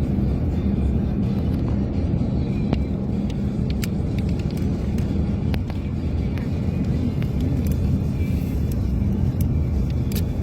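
Steady low vehicle rumble with scattered light ticks through it, and music underneath.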